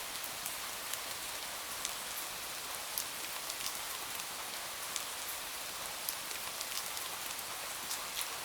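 Steady rain falling, an even hiss dotted with scattered sharp ticks of drops.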